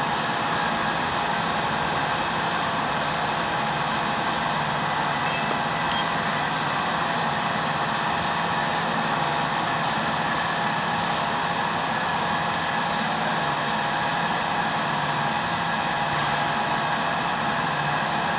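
Kubota D905 three-cylinder diesel engine running steadily at an even speed, with a short sharp click about five seconds in.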